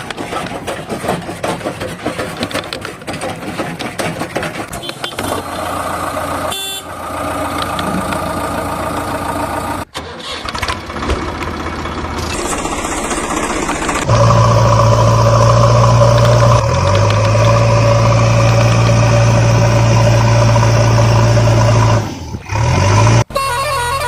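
Diesel engine of a JCB backhoe loader working, with irregular clanking of the digging gear. About halfway in it gives way to a loud steady engine drone, broken by short edits.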